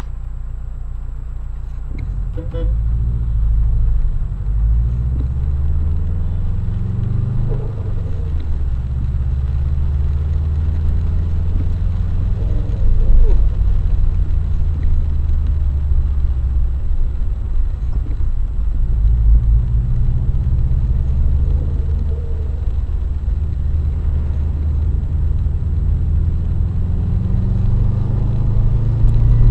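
Car engine heard from inside the vehicle, running under load with its pitch rising and falling several times as it accelerates and eases off.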